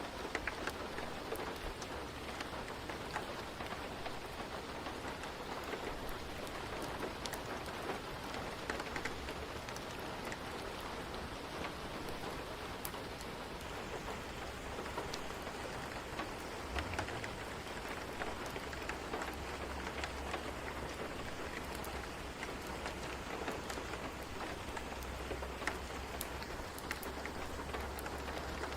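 Steady rain falling, an even hiss sprinkled with many short, sharp ticks. A low rumble comes in about two-thirds of the way through and stays.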